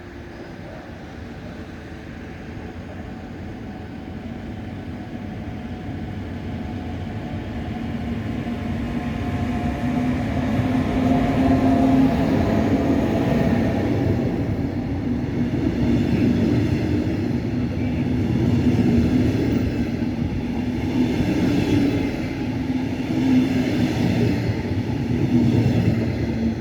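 A train passing through a station without stopping. Its running noise grows steadily louder over about ten seconds as it approaches, then stays loud as it rolls past.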